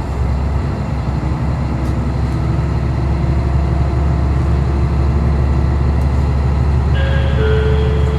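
Diesel railcar heard from inside the car: engine running and wheels on the rails in a steady low drone that grows louder over the first few seconds as the train picks up speed. A few steady electronic tones join near the end.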